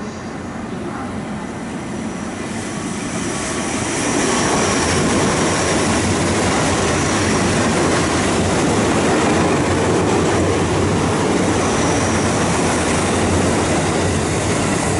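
A JR Central electric train running through the station without stopping. The sound builds over the first few seconds as it approaches, then holds as a loud, steady rush of wheels on rail, with a faint high whine now and then.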